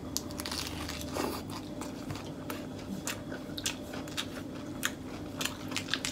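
Close-up chewing of a fresh lettuce wrap filled with beef rolled in betel leaves, with irregular crisp crunches and clicks of the leaves breaking.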